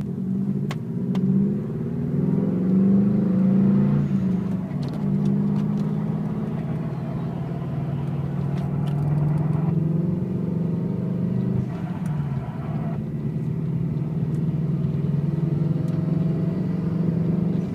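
2003 Subaru WRX's turbocharged flat-four engine running below 3,000 rpm with a grinding noise. The revs rise and fall over the first few seconds, then the engine runs fairly steadily, with another small change in pitch about twelve seconds in.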